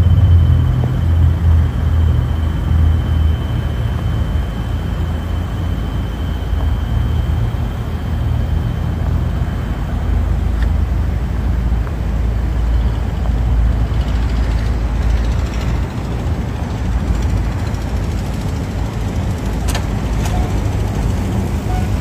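A motor vehicle's engine running with a low, steady drone, heaviest in the first few seconds.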